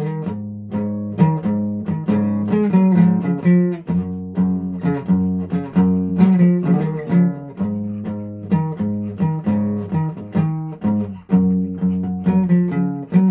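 Guitar being played, a run of single plucked notes and chords, several a second.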